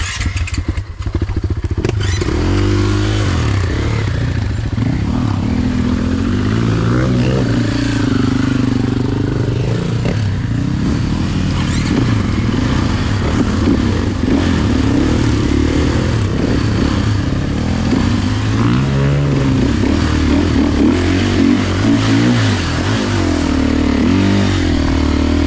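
Enduro dirt bike engine revving, its pitch rising and falling repeatedly as the throttle is worked.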